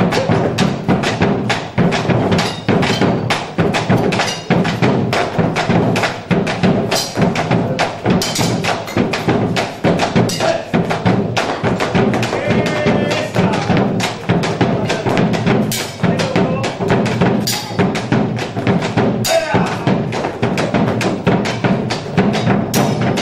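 Argentine folk music played live, driven by a fast, steady percussion beat of about three to four strikes a second over sustained instruments.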